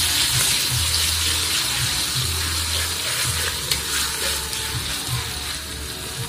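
Ground chili, garlic, shallot and turmeric paste with lemongrass sizzling in hot oil in a wok, stirred with a spatula, with a few light scrapes and taps of the spatula on the metal.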